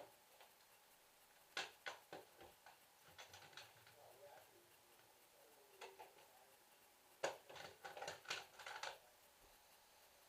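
Near silence broken by scattered faint clicks and light clatter, in small clusters, the loudest group about seven to nine seconds in.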